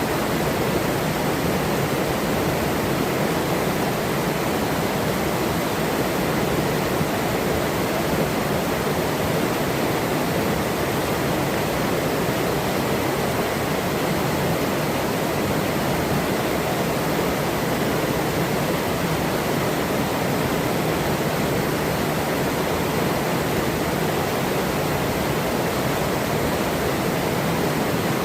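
Forest river flowing: a steady, even rush of running water with no breaks.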